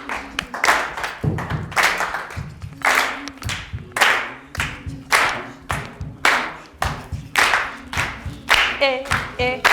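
A group clapping a steady rhythm, about one beat a second, with low thumps on the beat. Voices join in singing briefly near the end.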